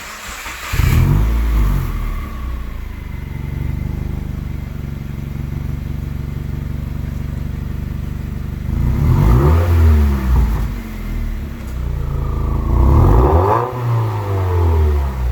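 Subaru WRX turbocharged flat-four started up through an exhaust with the muffler deleted and the resonator kept: it catches just under a second in, flares, and settles to idle. It is then revved twice, the pitch rising and falling each time, about four seconds apart.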